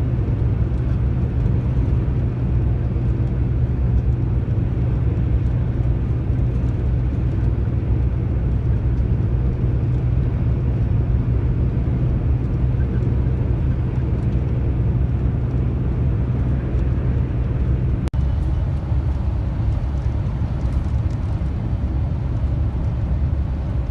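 Steady engine drone and road noise heard from inside a moving truck's cab. About 18 seconds in there is a brief dropout, after which the low engine hum is weaker.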